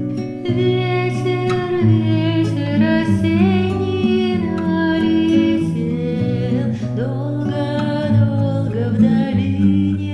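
A group of schoolchildren singing a Bulgarian folk song in Russian, arranged as a canon, with acoustic guitar accompaniment. The voices come in about half a second in over the guitar.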